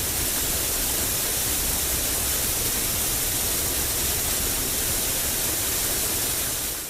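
Steady hissing rush of noise, brightest in the treble, fading away near the end.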